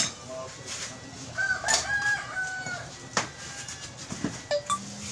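A rooster crowing once, a drawn-out call of about a second and a half, among a few sharp knocks.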